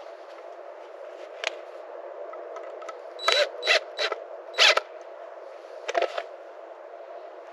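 Sharp, uneven knocks and clanks, some with a slight metallic ring, from hands-on garden fence repair: a faint one, a cluster of four in quick succession, then one more, over steady background noise.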